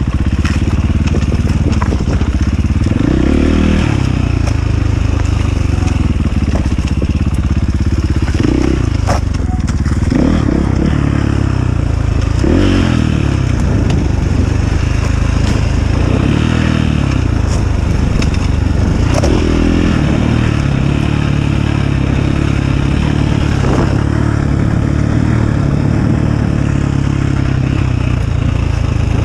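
Enduro motorcycle engine running hard, its revs rising and falling every few seconds as the rider works the throttle, with occasional sharp knocks and rattles over rough ground.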